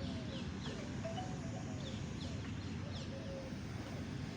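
Birds chirping: short, quick falling chirps repeated every half second or so, over a steady low background rumble.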